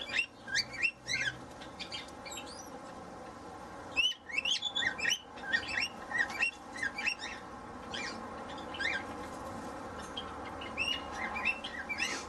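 Aviary birds chirping in quick flurries of short rising notes, with brief lulls about two seconds in and again near ten seconds.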